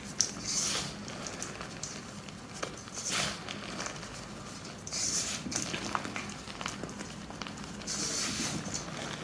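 Gym chalk blocks being crushed, crunching and crumbling in four bursts a couple of seconds apart, with small crackles between them.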